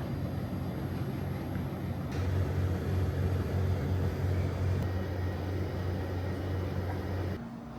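A vehicle running, a steady low rumble under an even noise, which cuts off abruptly near the end.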